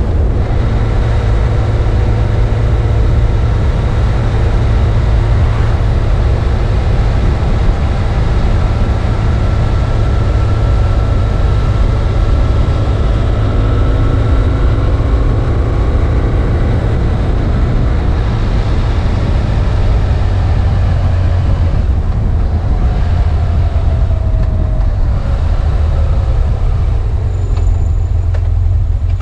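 BMW F800 ST's parallel-twin engine running steadily while the motorcycle is ridden, with a deep rumble throughout. The engine pitch drifts gently and falls a little late on.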